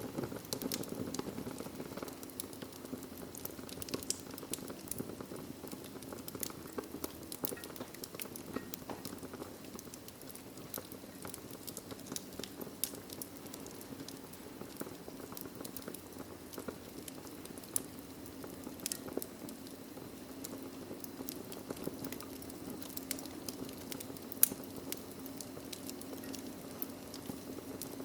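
Wood fire crackling in a fireplace: a steady low rumble of burning with frequent small sharp pops and snaps, one louder pop late on.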